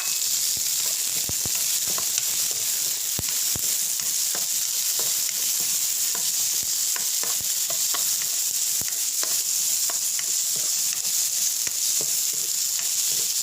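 Green bell pepper frying in hot oil with ginger and garlic in a pan, a steady sizzle with scattered clicks of a utensil stirring against the pan.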